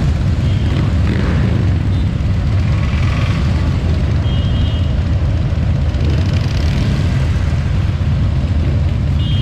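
Harley-Davidson motorcycle engine running steadily on the move, a loud low rumble with road and wind noise. A brief high tone sounds about four and a half seconds in.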